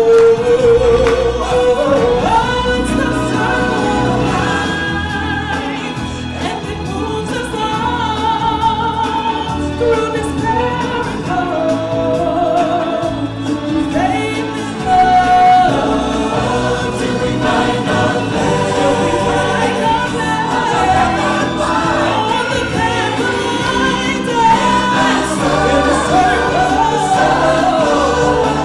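Stage-show music: a choir singing over a full musical accompaniment.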